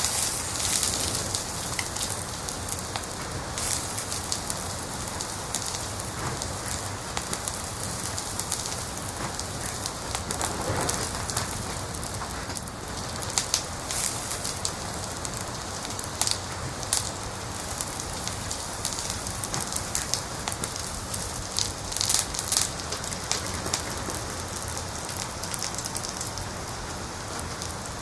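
Wood fire crackling in a fireplace: a steady hiss with many sharp pops and snaps, a few of them louder in the second half.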